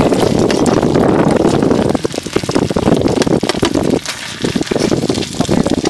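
Chive rice cakes frying in oil on a wide flat pan: a loud sizzling rush that drops away briefly about two and four seconds in, with a metal spatula scraping among the cakes.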